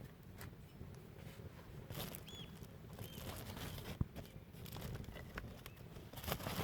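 Sticks and pieces of firewood being handled and stacked onto a freshly lit campfire in a fire pit: scattered light knocks, clicks and rustles, with a sharp click about four seconds in and a louder clatter near the end.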